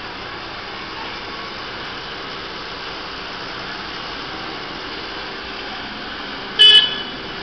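Steady noise of a motorbike riding through city traffic, its engine and wind hissing evenly. Near the end a single short, loud horn blast sounds.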